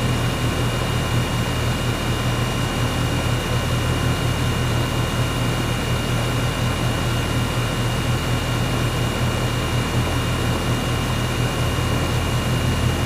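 Air conditioner running: a steady low hum with a thin, constant high whine over an even rushing noise.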